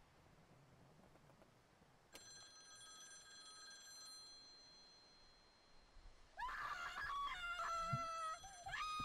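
A single bell-like metallic ring sounds about two seconds in and fades slowly. From about six seconds in a loud, high-pitched, wavering cry takes over, its pitch stepping up and down.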